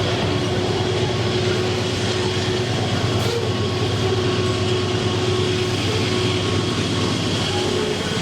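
Freight train rolling past on the rails: a steady, loud rumble of wheels on track with a thin, steady whine running through it.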